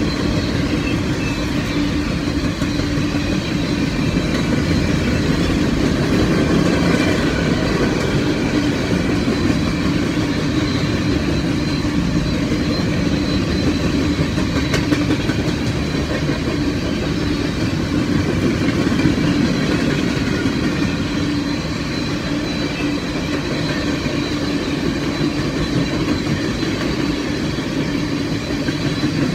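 A train's cars rolling past, a steady rumble of steel wheels on the rails.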